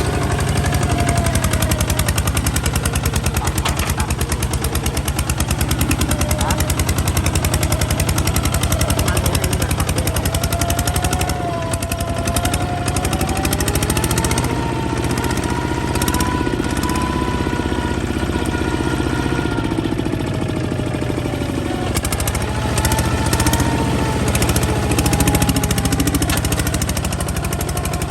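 Kubota ZT155 single-cylinder diesel engine running under way, a fast, even chugging with a tone that rises and falls a little as its speed varies.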